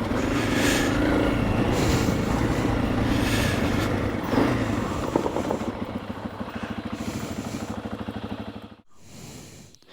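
Honda CRF300 Rally's single-cylinder four-stroke engine running as the trail bike rides on a clay track, then easing off to a slow, even idle pulse before it goes quiet near the end.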